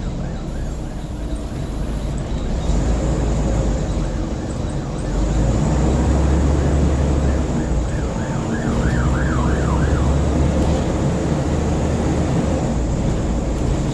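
Scania N94UB bus's diesel engine and road noise drone on the move, heard from inside the saloon. An emergency vehicle's siren yelps outside, rising and falling quickly in pitch, faint at first and loudest a little past halfway through before it cuts away.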